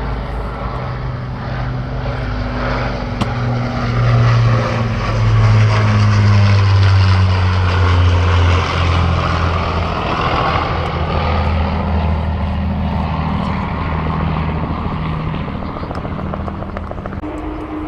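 Aerobatic propeller plane's piston engine running through a display manoeuvre, growing louder and then falling in pitch as it passes.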